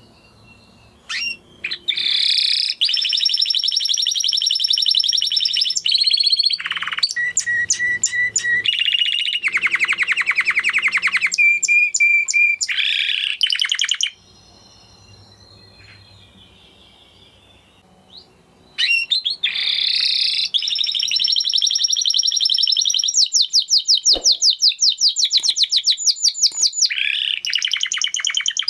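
Spanish Timbrado canary singing in two long phrases of rapid trills and quick note series, broken by a pause of about five seconds in the middle.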